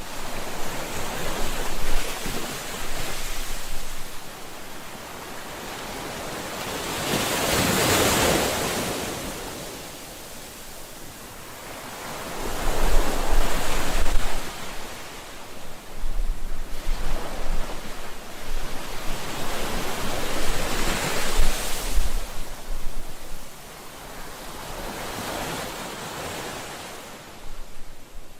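Sea waves breaking and washing onto the shore, swelling and fading in a slow rhythm of one surge every four to six seconds.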